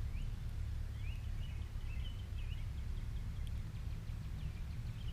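Faint bird chirps, short sliding notes repeated through the middle, over a steady low rumble of outdoor background noise.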